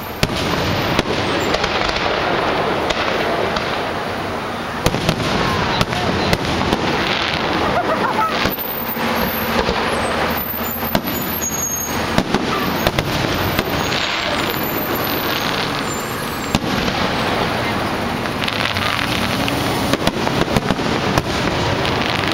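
Aerial fireworks shells bursting in a dense barrage: many sharp bangs in quick succession over a continuous rumble of explosions.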